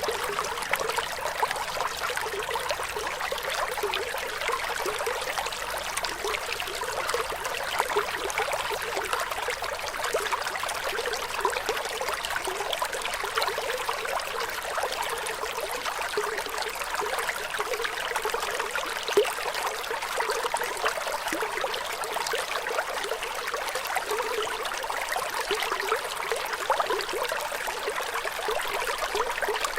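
Flowing water trickling and bubbling steadily, a bright, even rush with no deep rumble.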